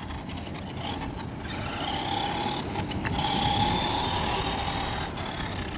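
FMS 1/10 Ford F-100 RC monster truck driving, its 550 brushed motor and gear drivetrain whining over a haze of tyre noise. The whine rises about two seconds in and fades again about a second before the end. The drivetrain is a little loud.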